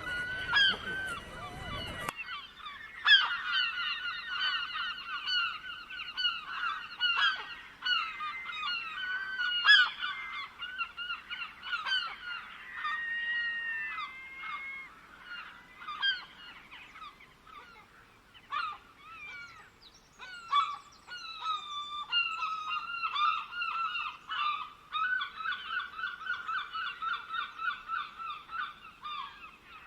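A flock of birds calling, many overlapping birds giving quick runs of repeated notes. A steady hiss under the calls cuts off suddenly about two seconds in.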